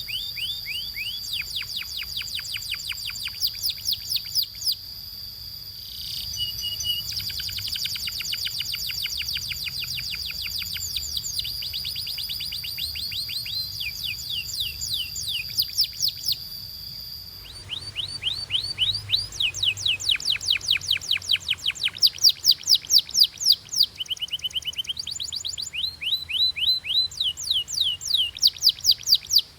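Domestic canary singing: fast trills of repeated high, downward-sweeping notes, switching to a new trill every few seconds. A steady high whistle-like tone runs under the first half.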